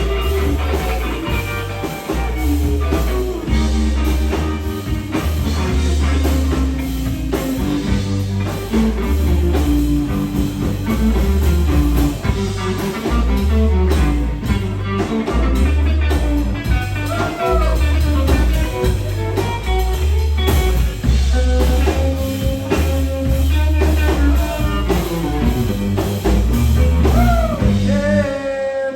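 Live blues-rock trio of electric guitar, bass guitar and drum kit playing a passage without vocals. The guitar plays notes that bend in pitch over a steady, repeating bass and drum groove.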